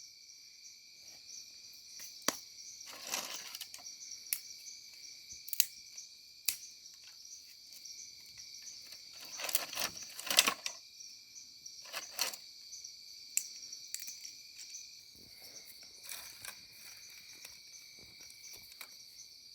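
Crickets trilling steadily in a continuous high chorus, with scattered sharp clicks and short scraping or rustling noises; the loudest scrape comes about ten seconds in.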